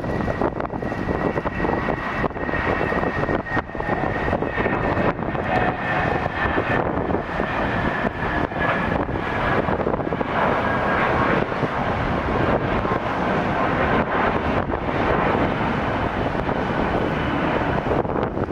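Jet airliner's engines passing: a steady rush of jet noise with a whining tone that slowly falls in pitch, and wind buffeting the microphone.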